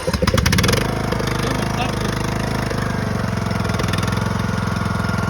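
Tractor engine cranking and catching within the first second, then running at a steady idle.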